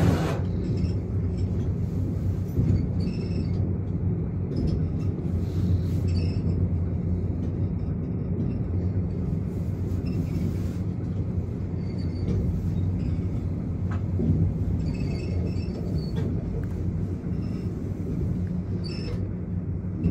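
Steady low rumble and hum of the Skylon Tower's exterior elevator car travelling down its shaft.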